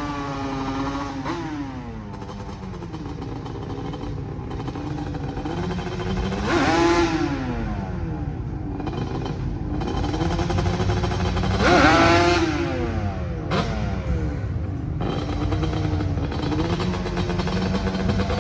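Yamaha Banshee's two-stroke twin-cylinder engine being revved, its pitch rising and falling under the throttle, with two big climbs to high revs and back about seven and twelve seconds in.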